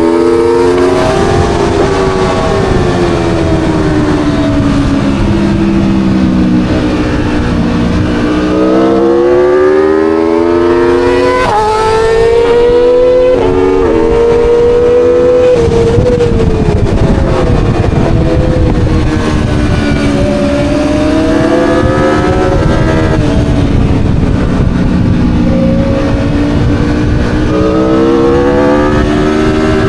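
Aprilia Tuono V4 motorcycle's V4 engine at track pace, its pitch climbing in steps through upshifts and then falling under braking and downshifts, several times over.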